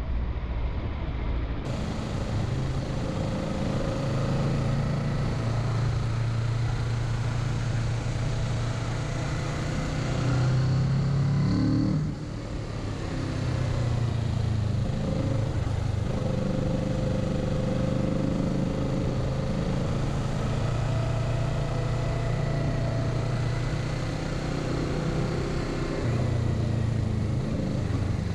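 Kawasaki Z650 parallel-twin engine running under way in third gear, with wind noise. The engine note climbs slightly about ten seconds in, drops off suddenly a couple of seconds later, and picks up again near the end.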